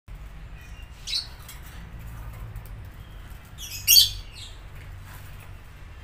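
A small bird calling twice: a short chirp about a second in, then a louder quick run of chirps near four seconds.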